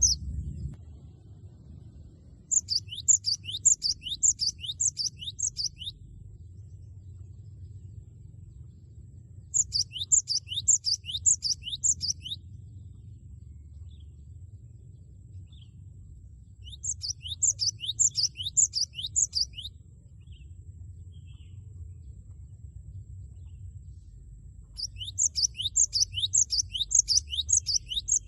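A cinereous tit (gelatik batu) singing loudly in four separate bursts several seconds apart. Each burst is a fast run of repeated, high, down-slurred whistled notes, its "wucit wucit" song.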